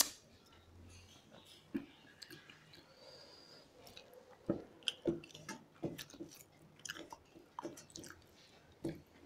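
Chewing and mouth sounds of people eating rice and fish curry by hand: scattered soft smacks and clicks, coming more regularly, about one or two a second, from about halfway through.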